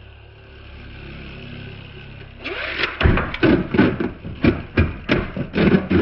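Two Beyblades, the custom 3D-printed Agèma Ares and the Beyblade X Night Lance, spinning in a stadium with a steady low whir. From about halfway they clash hard, with sharp clacks several times a second.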